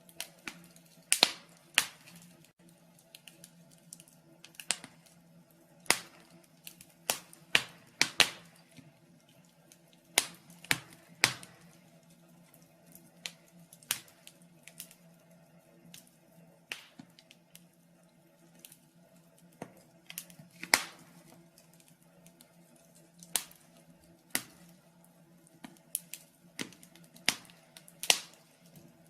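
Wood fire crackling in a fireplace: irregular sharp pops and snaps, sometimes singly and sometimes in quick clusters, over a faint steady hum.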